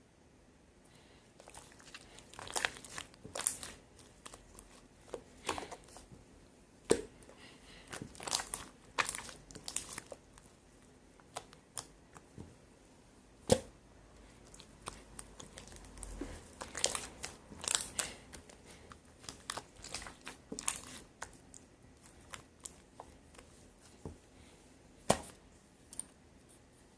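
Slime being squeezed and stretched by hand as two slimes are mixed: irregular sticky crackles and small pops, with a few sharper snaps scattered through.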